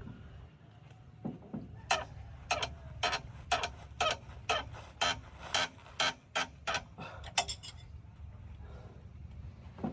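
Sharp metallic clanks, about a dozen at roughly two a second, from the excavator's steel track chain being worked into place, over the steady low rumble of an idling diesel engine.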